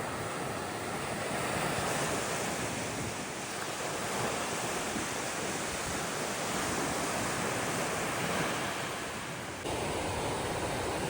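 Sea surf washing onto a beach: a steady rushing of waves with no distinct events, shifting abruptly near the end.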